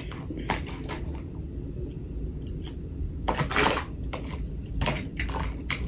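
Close-miked eating: chewing and wet mouth smacks, with scattered short clicks, a couple of them louder about three and a half and five seconds in.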